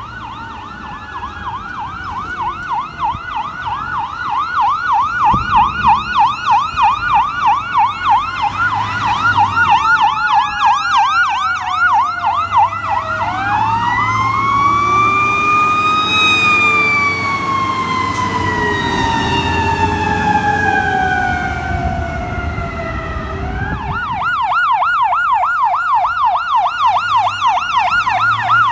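Fire apparatus sirens: a rapid electronic yelp, with more than one siren at different pitches. About halfway through, a mechanical Federal Q siren winds up and coasts slowly down over several seconds before the yelp returns. The trucks' engines rumble underneath.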